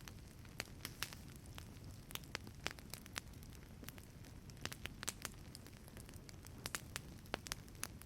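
Wood fire crackling in a fireplace: irregular sharp pops and snaps over a soft, steady low rumble of burning.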